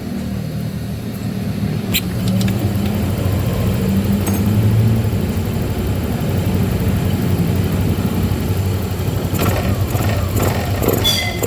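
Yamaha Lexi 125's single-cylinder fuel-injected engine running at low speed, after its idle speed control valve has been reset to get a steady idle. A click about two seconds in, and a few clicks and knocks near the end.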